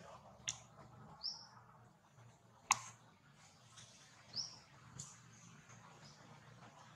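Two short, high chirps from a small bird, each sweeping up and falling back, with fainter high peeps in the second half. Three sharp clicks sound over a quiet outdoor background, the loudest about halfway through.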